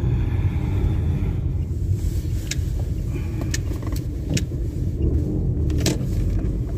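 Car interior while driving: steady low engine and exhaust rumble, which the driver suspects comes partly from a muffler that has begun to leak since the catalytic converter was removed. A few sharp clicks sound over it.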